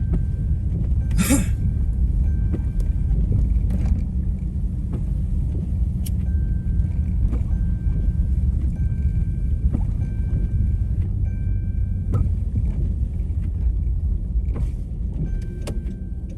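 Steady low rumble of a V6 Dodge Charger driving on a snow-covered road, heard from inside the cabin, with a few faint clicks and a short hiss about a second in.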